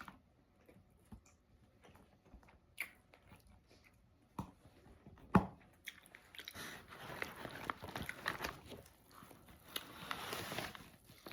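Close-miked chewing and mouth sounds of someone eating an Italian beef sandwich and fries. Scattered wet clicks come first, with one sharp click about five seconds in. Denser crackly chewing fills the last few seconds.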